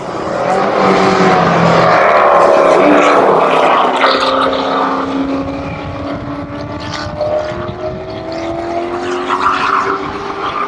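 A car engine running hard at high revs, its pitch sliding down and back up, loudest in the first few seconds and then holding steady.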